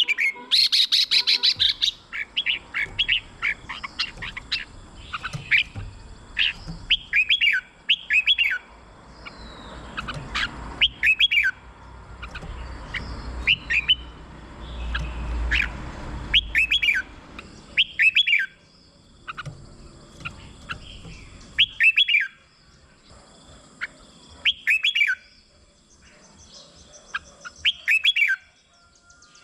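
Red-whiskered bulbul singing short, bubbling whistled phrases, repeated every second or two. A low rumble runs under the song until about three-quarters of the way through.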